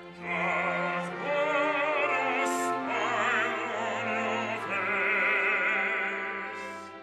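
Operatic singing with strong vibrato over orchestral accompaniment, a phrase beginning just after the start and tailing off near the end.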